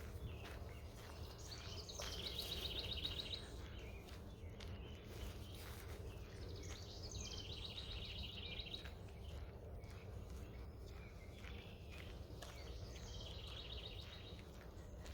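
A songbird singing the same short song three times, about five seconds apart, each a brief rising lead-in ending in a rapid trill, over a steady low rumble of outdoor background noise.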